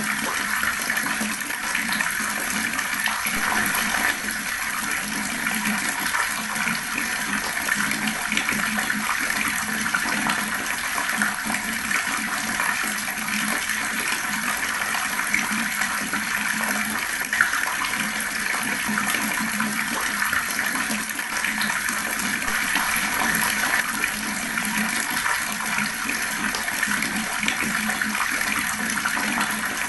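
Water running steadily from a tap, an even splashing stream that goes on unchanged.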